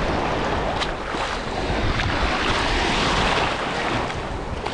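Shallow sea surf washing around a person wading in, with wind buffeting the microphone.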